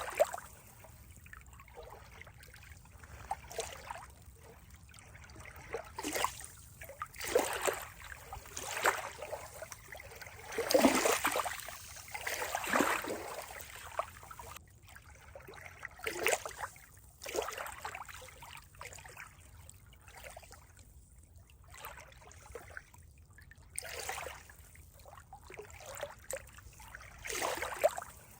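Water trickling and splashing in uneven surges, some louder than others, with no steady rhythm.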